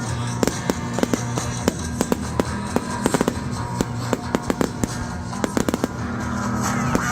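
Fireworks going off in a display, many sharp bangs and crackles at an irregular, quick rate, over loud music.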